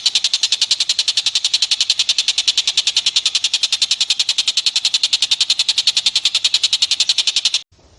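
Recorded animal call: a rapid, even trill of sharp high notes, about a dozen a second, that cuts off abruptly near the end.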